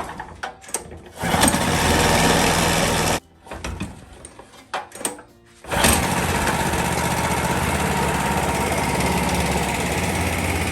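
Small Chinese petrol engine of a long-tail boat motor being pull-started: it catches about a second in, runs for two seconds and dies, then after a few more short coughs it starts about six seconds in and keeps running steadily.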